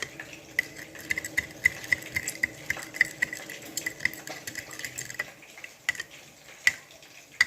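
A spoon stirring sweet and sour sauce (ketchup, vinegar, sugar and soy sauce) in a container, clinking against its side about two to three times a second with a short ring. The clinks thin out after about five seconds, leaving a few louder single knocks near the end.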